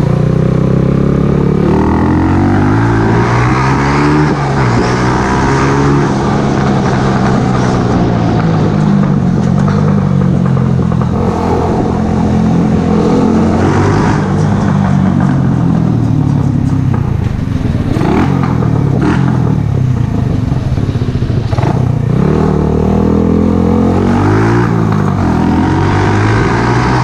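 Mash Café Racer 125's small single-cylinder four-stroke engine, running through an aftermarket Megaton exhaust. The engine pitch climbs and drops over and over in short rises of a couple of seconds each, with two short sharp knocks near the middle.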